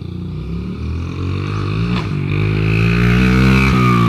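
Dirt bike engine revving up, rising in pitch and getting louder, with a brief dip in pitch near the end.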